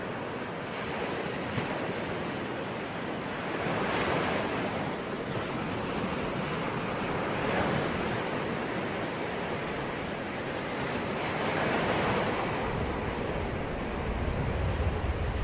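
Sea waves washing in, in a steady rush that swells every three to four seconds as each wave breaks. A low rumble builds near the end.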